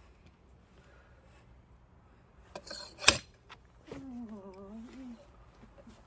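Firewood-splitting wedge driven into a log: a few light knocks, then one loud sharp metal-on-metal strike about three seconds in. A short wordless murmur from a person follows.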